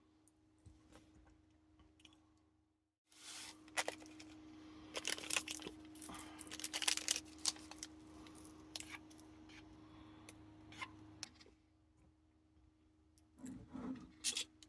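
A run of small clicks, clinks and rustling, as of objects being handled, from about three seconds in until about eleven seconds, over a steady low hum; a few more knocks near the end.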